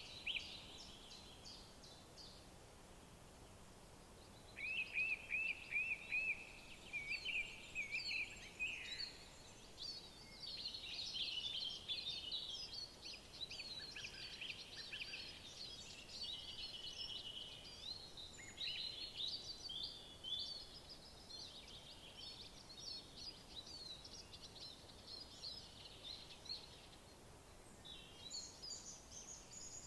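Several songbirds singing over one another in woodland. About five seconds in, one bird sings a run of evenly repeated short notes, and then dense overlapping chirps and trills follow.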